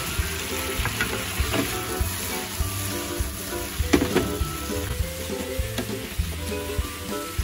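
Mixed vegetables sizzling as they fry in a frying pan, with a wooden spatula stirring them and knocking and scraping against the pan; the loudest knock comes about four seconds in.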